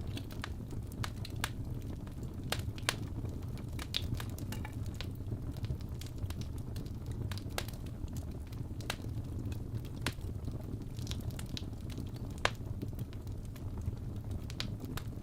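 Fire burning in a fireplace: a steady low rumble of flame with irregular sharp crackles and pops, about one or two a second, one louder pop about three-quarters of the way through.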